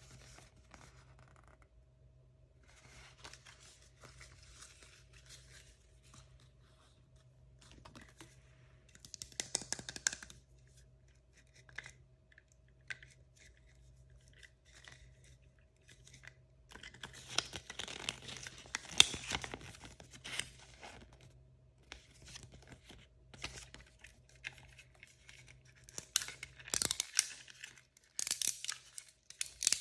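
Plastic blind-bag packaging being torn open and crinkled by hand, in irregular bursts, the loudest tearing about a third of the way in, in the middle and near the end.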